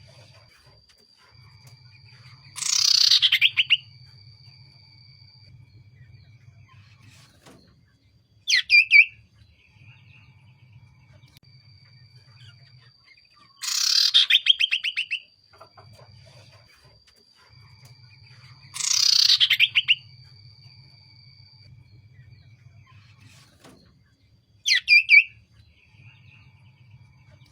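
Common iora calling: five loud, rapid trilled phrases about a second each, spaced several seconds apart, with faint long held whistles between them. A faint low hum runs underneath.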